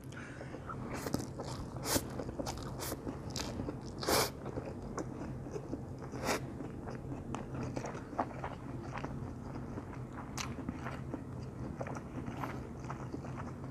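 A person chewing a mouthful of wasabi-mayo stir-fried instant noodles with tuna, close to the microphone: eating noises with scattered short mouth clicks.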